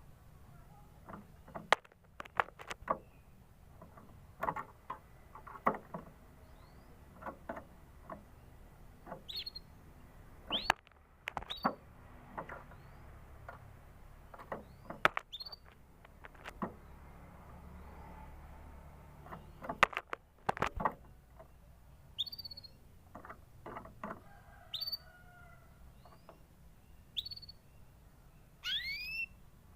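Canary giving scattered short, rising chirps, with a quick run of several chirps near the end, among sharp clicks and knocks that are louder than the calls.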